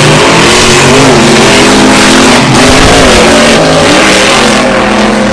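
Truck engine running loud, its revs wavering up and down repeatedly.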